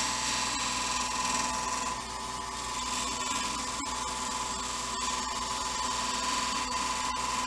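Wood lathe running steadily while a gouge barely touches a spinning blank of sticks cast in epoxy resin, a light cut with a faint hiss over the lathe's steady hum. It is the sound of a light finishing touch meant to clean up chip-out that pushing too hard caused.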